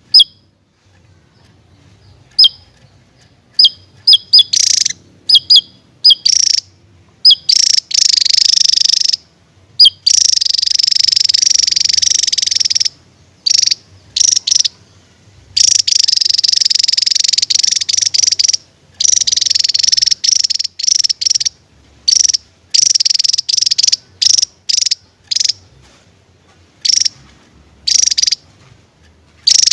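Javan tesia singing loudly. A few short, sharp high notes come first, then long, fast, dense song phrases of two to three seconds each, broken by short pauses and quick single notes.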